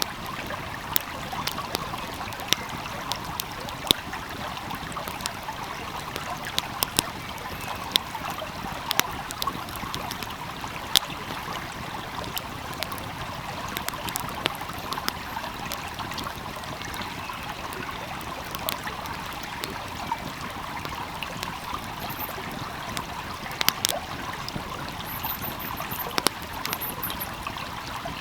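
A flowing stream's steady rush with a wood fire crackling over it, sharp pops and snaps scattered irregularly throughout.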